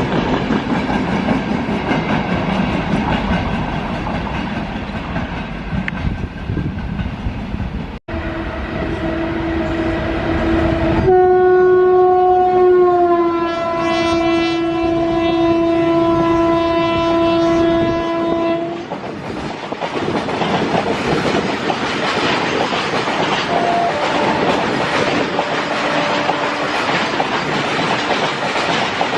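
Indian Railways freight train running past with wheels clattering over the rail joints. After an abrupt cut about eight seconds in, a locomotive horn sounds a long blast of about ten seconds, loudest at its start, dipping slightly in pitch as it passes. The wagons then rumble and clatter by.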